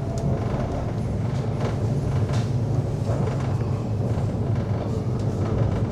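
Steady low rumble of a London Overground electric train running between stations, heard from inside the carriage, with a few faint clicks.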